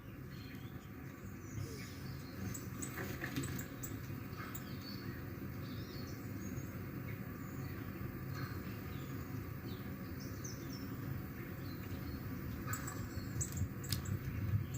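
Small birds chirping and tweeting in short, scattered calls, over a steady low hum.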